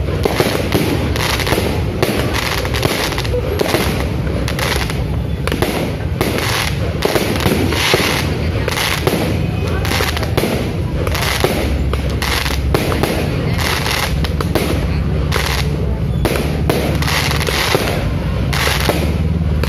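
Aerial fireworks display: a rapid, unbroken barrage of shell bursts and bangs, several a second, over a low rumble.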